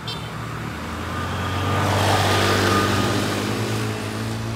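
A truck engine running as the truck passes close by. It is a steady low hum with a rushing noise that grows louder to a peak about two to three seconds in, then fades.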